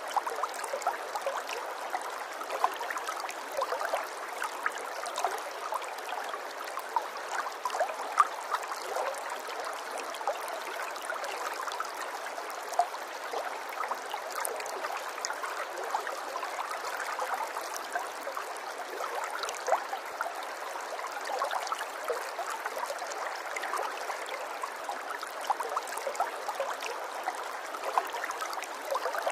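Running water trickling and gurgling steadily, with many small, quick gurgles through an even rushing sound.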